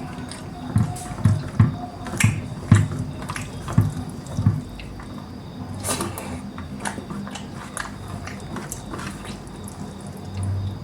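Close-miked eating sounds from chicken curry: wet chewing and mouth smacks. A run of soft low thumps with small clicks comes about every half second in the first half, then it goes quieter.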